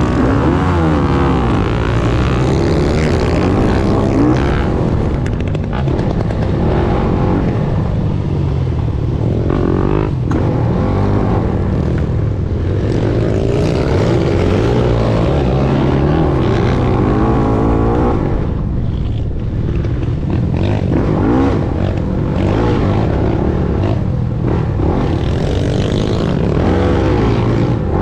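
Motocross dirt bike engine being ridden hard, its revs rising and falling over and over through acceleration, gear changes and backing off.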